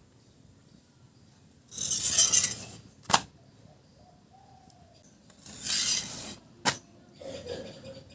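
Spatula scraping across a hot tawa griddle under the roti twice, each scrape ending in a sharp tap of the spatula on the griddle.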